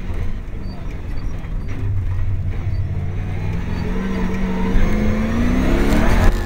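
Racing GU Nissan Patrol's engine heard from inside the cabin, running under a low rumble, then rising steadily in pitch over the last couple of seconds as the truck accelerates.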